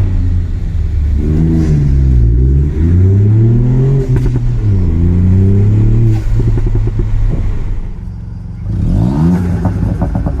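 Ford Fiesta ST Mk8's 1.5-litre three-cylinder turbo engine and exhaust revving, its pitch climbing and dropping several times. A run of crackles follows a few seconds in and again near the end.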